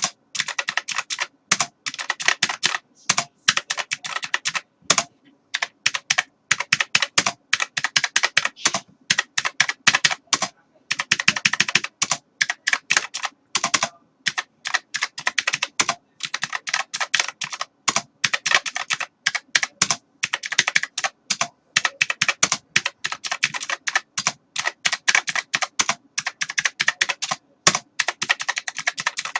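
Computer keyboard typing: quick runs of key clicks in irregular bursts, broken by short pauses.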